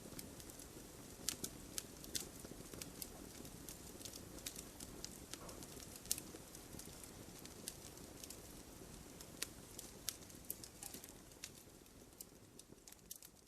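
Wood campfire crackling: scattered sharp snaps and pops of burning firewood over a low steady rush of flames, fading out near the end.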